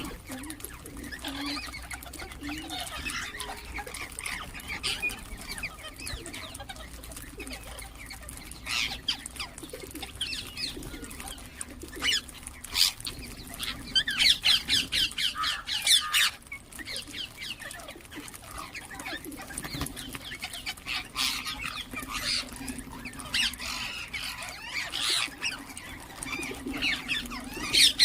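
Ringneck parrots chirping and calling in short, high notes, with a quick run of chirps about halfway through.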